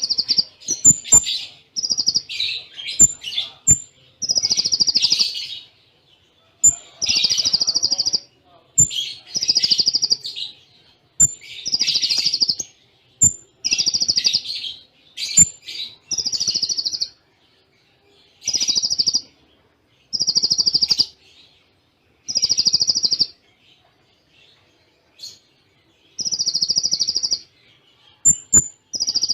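Konin (kolibri ninja) sunbird singing a fast, rapid-fire song in cililin style: bursts of quick high notes about a second long, repeated roughly every two seconds, many opened by a short, very high 'tsit'. There is a longer pause about two-thirds of the way through.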